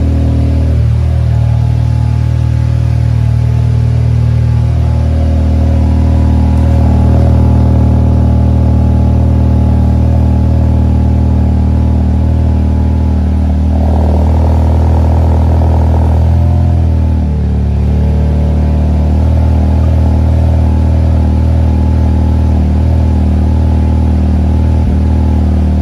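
2019 Volkswagen Jetta GLI's turbocharged 2.0-litre four-cylinder running steadily through an aftermarket MBRP muffler, with the engine note shifting about five seconds in, a louder, rougher stretch around the middle, then a drop in pitch.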